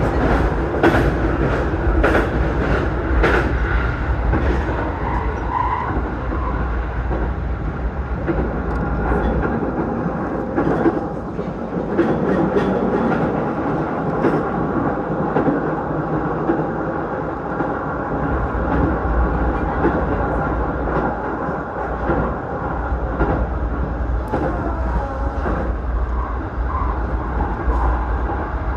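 Electric commuter train running at speed between stations, heard from inside the carriage: a steady rumble of wheels and running noise, with a quick run of sharp clicks from the rails in the first few seconds.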